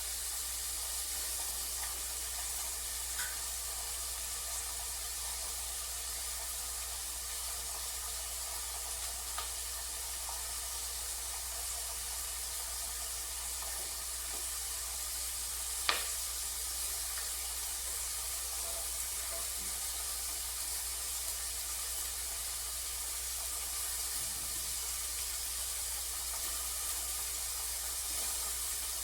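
Onion and bell pepper frying in a pot, a steady sizzling hiss, with one sharp click about halfway through.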